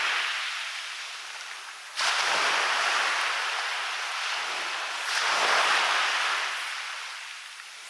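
Sea waves breaking on a beach and washing up the shore. Two waves break, about two seconds in and about five seconds in, each surge of surf fading as the wash runs out.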